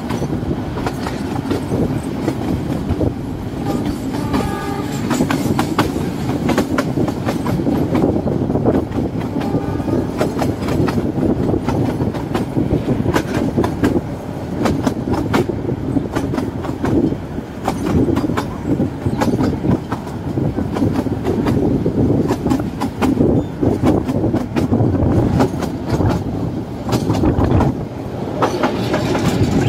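Narrow-gauge train coaches running, heard from an open doorway: a steady rumble and rattle with the wheels clicking over rail joints.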